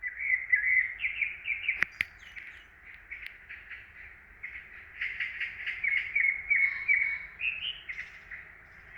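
Songbirds chirping in a forest: rapid runs of short, high chirps in two bursts, with a quieter gap in the middle. A single sharp click is heard about two seconds in.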